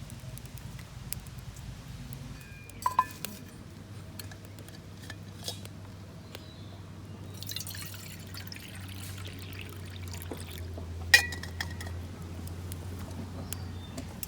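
Liquid being poured, likely hot water for tea, with a couple of sharp clinks of a cup or pot, the loudest near the end, over a steady low hum.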